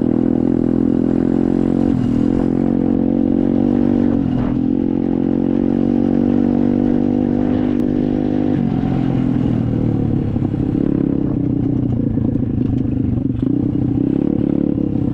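SSR 125 dirt bike's single-cylinder four-stroke engine running steadily as the bike is ridden. Its pitch dips briefly about two and four seconds in, and it settles to a lower note a little past halfway.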